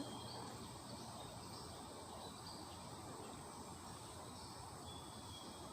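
Low, steady background hiss with a few faint, short high chirps scattered through it.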